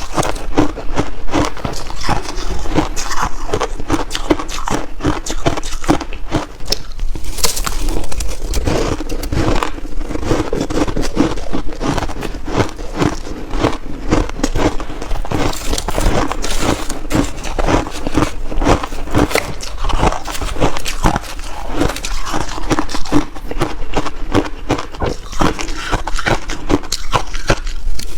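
Shaved ice crunching between the teeth in big bites, close to the microphone: a dense, continuous run of sharp crunches.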